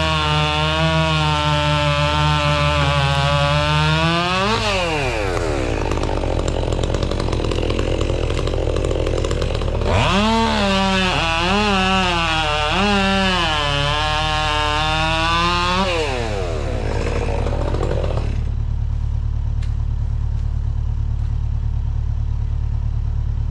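Chainsaw revving at full throttle, its pitch sagging as it bites into wood, then dropping back about four seconds in. It revs and cuts again from about ten seconds, dipping in pitch under load, and winds down after about sixteen seconds. A low, steady engine drone runs underneath throughout and is left on its own near the end.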